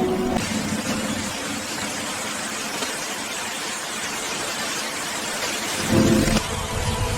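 A steady rushing hiss of water. About six seconds in, a low rumble and steady musical tones come back in.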